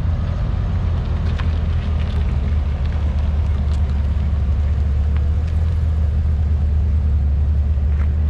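Corvette V8 engine idling with a steady, deep rumble.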